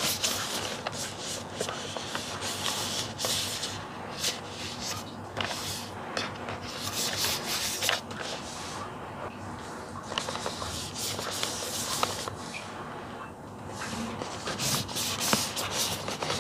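Fingers rubbing and scraping over a cardboard action-figure box, with many light clicks and taps as it is turned in the hands and its outer sleeve is slid off.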